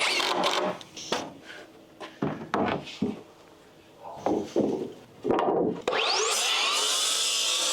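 Lumber being handled, with a series of irregular wooden scrapes and knocks, then a steady sawing sound that starts about six seconds in.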